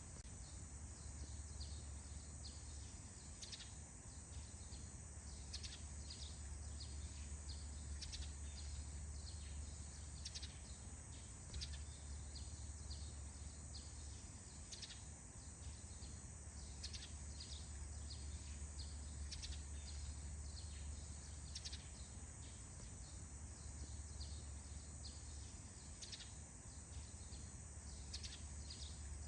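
Faint forest ambience: birds chirping in short, scattered calls every second or so, over a steady high insect-like hum and a steady low rumble.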